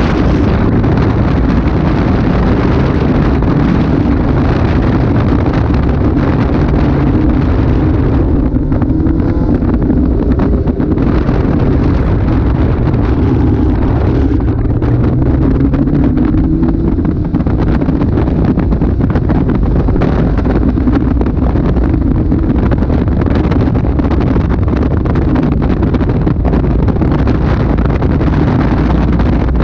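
Caterham Super 7's engine pulling hard through a circuit lap, heard from the open cockpit with heavy wind buffeting on the microphone. The engine note drops about eight seconds in, then climbs again a few seconds later.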